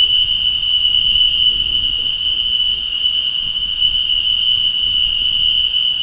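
Steady, unbroken high-pitched insect chorus, crickets, over low rumbling background noise.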